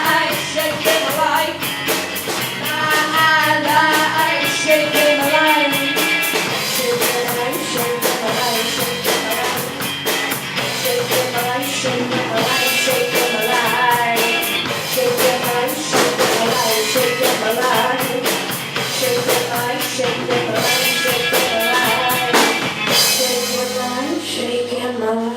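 Live rock band playing: a drum kit beating steadily under electric guitar, with singing through the first several seconds. The band thins out near the end as the song draws to a close.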